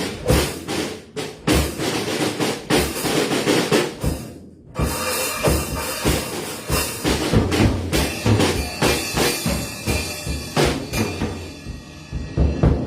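Drum kit played in a dense, busy pattern of hits that breaks off briefly about four and a half seconds in, then carries on.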